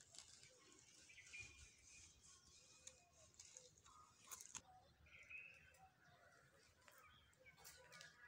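Near silence: faint, far-off bird chirps now and then, and a few soft clicks about four seconds in.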